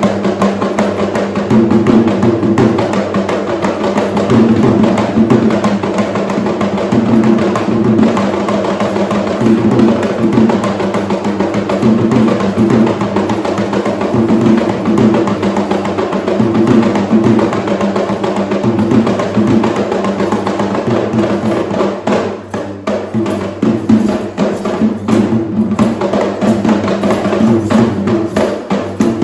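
Traditional Sri Lankan drums played in a dense, continuous rhythm, dipping briefly in level about 22 seconds in.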